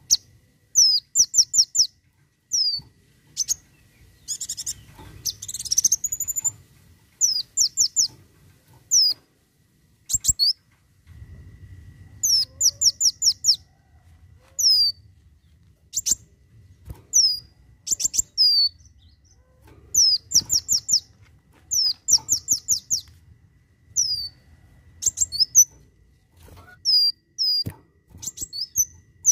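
Kolibri wulung sunbird singing its 'tembakan' song: quick runs of three to five short, high, down-slurred notes, repeated every second or two, with one rising glide about five seconds in.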